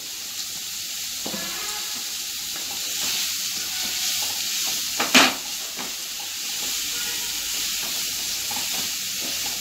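Sliced ivy gourd frying in hot oil in a nonstick pan, a steady sizzle while a wooden spatula stirs and scrapes through the pieces. The spatula knocks once, sharply, against the pan about five seconds in.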